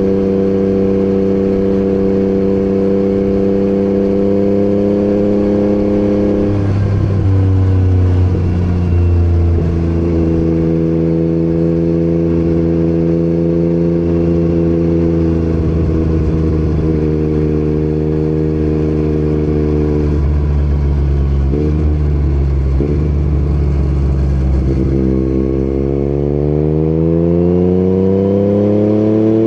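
Yamaha MT-09 inline-three with an Akrapovic exhaust running at a steady cruise, its pitch shifting slightly about six seconds in and again around twenty-one seconds. Near the end it accelerates with the revs rising, then drops as it shifts up.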